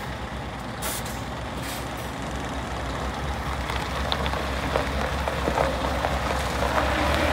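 Scania R580 truck's V8 diesel engine idling with a steady low rumble, with two short air hisses about one and two seconds in. A noisy hiss with scattered clicks slowly grows over the second half.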